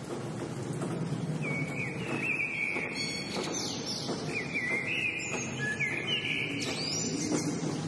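Birds chirping and singing in a run of short, warbling phrases that start about a second and a half in and stop near the end. Underneath is a steady low rushing noise, like rain or wind in a nature recording.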